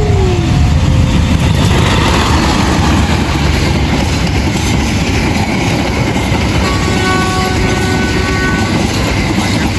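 Passenger train passing at speed close by: a loud, steady rumble of wheels on the rails, with clickety-clack of the coaches going over the track.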